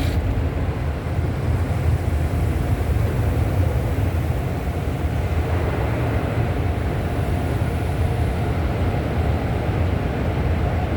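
Automatic car wash equipment working over the car, heard from inside the cabin as a steady low rumble.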